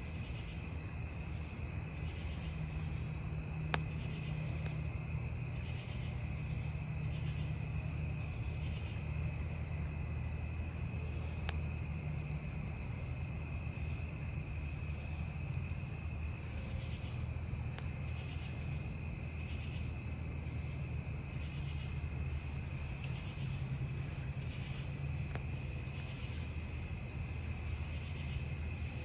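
Crickets trilling steadily, with higher insect chirps pulsing every second or two, over the low steady rumble of a wood campfire. A sharp pop from the burning wood comes about four seconds in and another near twelve seconds.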